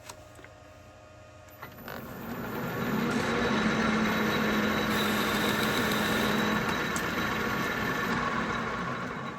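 Metal lathe taking a single-point threading pass on an internal steel thread: a few sharp clicks of the controls, then the machine runs up and cuts steadily with a hum and hiss for several seconds before easing off near the end.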